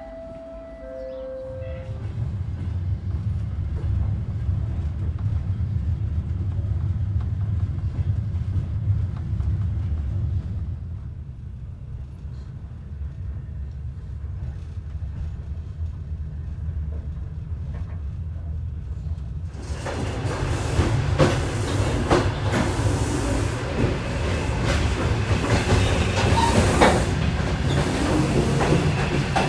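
Passenger train running, heard from inside a sleeper coach: a steady low rumble, which about two-thirds of the way through gives way to louder wheel clatter and rattling with many sharp clicks in the coach's end vestibule.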